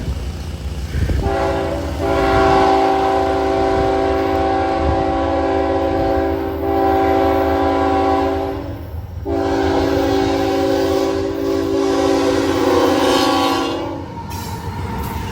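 Locomotive air horn, a Nathan K5HL five-chime, sounding two long blasts: the first about seven seconds long, then after a short break a second one that ends about 14 s in. A low train rumble runs beneath.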